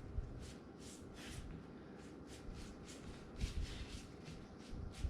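Hands spreading oil-coated kale leaves back out: faint, repeated rustling and crinkling of the leaves, a few times a second.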